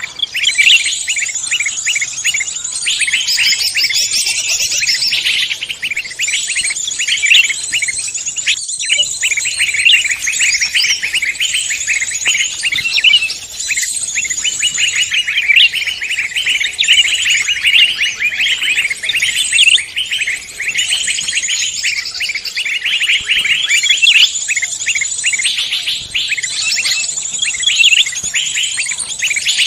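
Dense chorus of small songbirds, rapid high chirps and twitters overlapping without pause. It is a lure recording of forest songbirds meant to draw other birds in.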